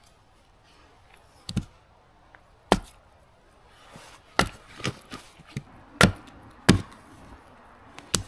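Axe chopping into wood: about nine sharp blows, spaced irregularly and coming closer together in the second half.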